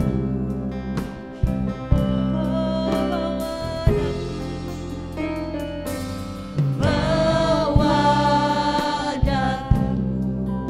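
Christian worship band with a group of singers, a steady bass and regular drum hits.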